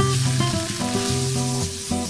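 Bolognese meat sauce sizzling in a frying pan as it is stirred with a wooden spatula, under background music of steady held notes.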